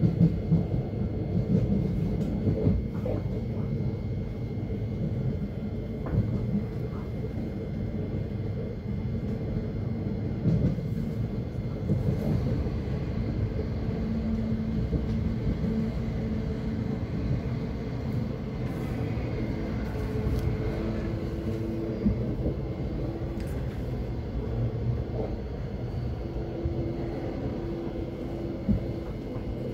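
Inside a Thameslink electric train running between stations: a steady rumble of wheels on the rails with a continuous electrical hum from the traction equipment. A few brief knocks stand out from the rumble.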